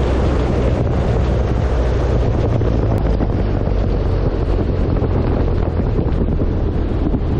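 Airflow buffeting a camera mounted on the wing of a large electric RC airplane in flight: a steady, loud wind rush heaviest in the low end.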